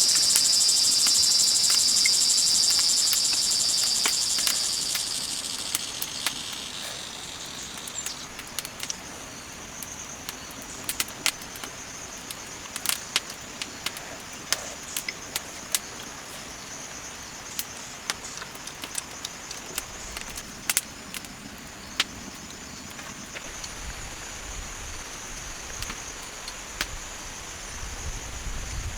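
A loud, dense chorus of insects buzzing that fades out over the first several seconds, followed by scattered sharp clicks and snaps over a fainter, steady high insect whine.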